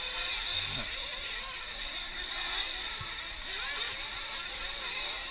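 Nitro-powered RC race trucks running on the track, their small glow engines making a steady high-pitched buzz.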